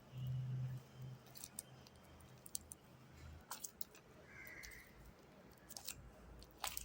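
Sticky homemade slime being squeezed and pulled apart by hand, giving scattered small sticky clicks and pops. A brief high chirp-like call comes about four and a half seconds in.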